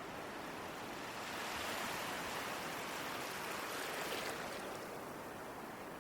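Ocean waves: a wave swells up about a second in, breaks and washes, then drops away just after four seconds.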